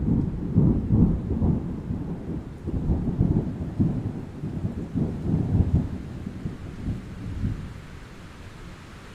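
Thunder from a thunderstorm sound effect: it breaks in suddenly and rolls on in several swells for about seven seconds. It then fades into a steady hiss of rain.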